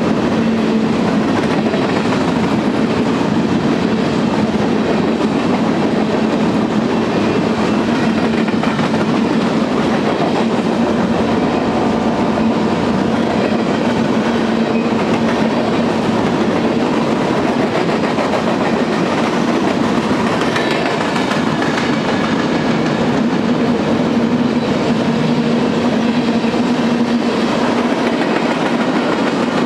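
Freight cars (covered hoppers, then tank cars) of a long mixed freight train rolling past close by: a loud, steady rumble of steel wheels on rail with a low, even hum running through it.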